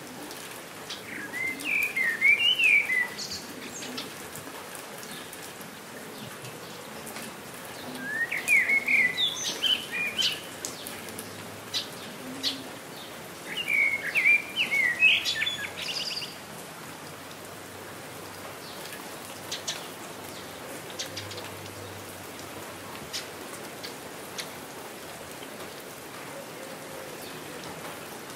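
Steady rain falling, with scattered sharp drips, while a songbird sings three short chirping phrases of about two seconds each, spaced several seconds apart in the first half.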